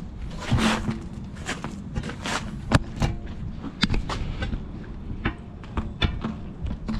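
Irregular sharp metal clanks and knocks with short scrapes, as steel tire bars pry a semi-truck tire off its steel rim.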